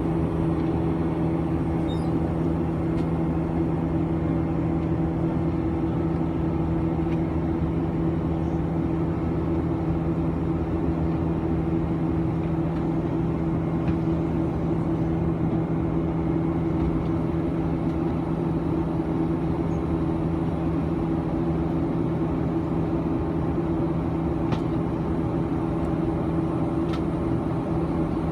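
Steady cabin drone of a Boeing 737-900 airliner: its CFM56-7B engines and airflow heard from inside the cabin, with two steady hum tones over a low rumble and no change in pitch or level.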